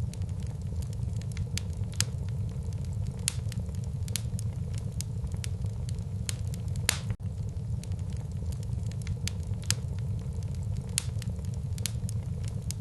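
Wood fire burning in a fireplace: irregular sharp crackles and a few louder pops over a steady low rumble.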